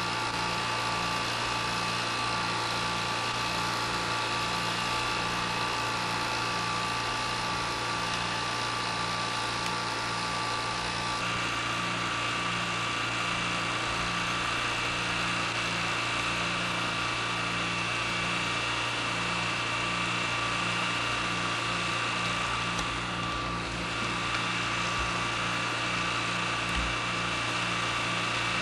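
A steady mechanical drone, like a small engine running, with several held tones and a low hum that pulses about twice a second.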